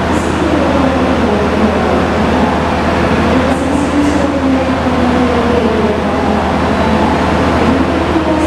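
Jayabaya passenger train rolling slowly into the station: a loud, steady rumble of coaches with a low hum, and tones that glide slowly up and down over it as it brakes to a stop.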